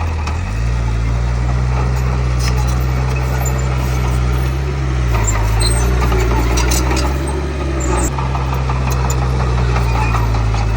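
Komatsu D31P bulldozer's diesel engine running steadily under work. Its low note steps up or down a few times, with a few faint metallic clanks.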